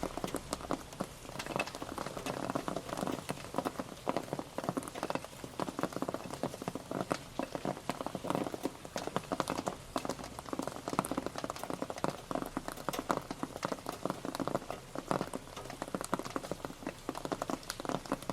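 Rain pattering on a surface: dense, irregular drop impacts over a steady hiss, keeping an even level throughout.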